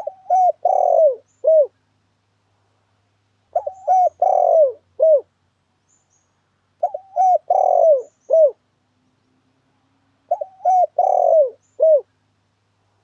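Spotted dove cooing as a lure call: the same phrase of four or five short falling coos repeats four times, about every three and a half seconds, with silence in between.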